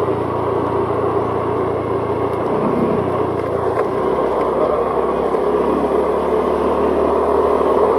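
Vehicle engine running at driving speed under steady road and wind noise, with the engine note changing twice partway through.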